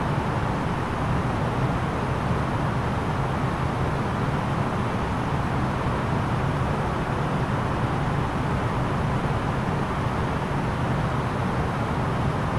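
Steady in-cabin noise of an Airbus A330-900neo airliner in descent: an even rush of airflow over a low engine hum, unchanging throughout.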